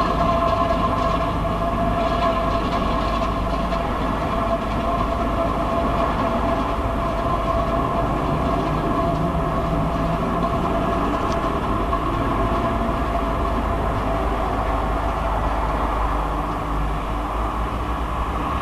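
Steady droning hum outdoors, with two held tones over a constant low rumble, picked up through a mobile phone's microphone. It is one of the unexplained 'strange sounds' heard over Warsaw.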